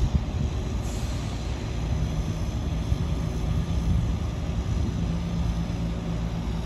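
Diesel multiple unit passenger train pulling away, its engine running with a steady low rumble; a low engine note comes in about two seconds in.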